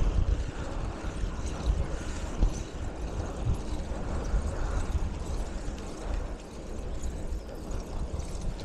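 Riding noise on a moving bicycle: wind buffeting the microphone as an uneven low rumble under a steady rushing hiss.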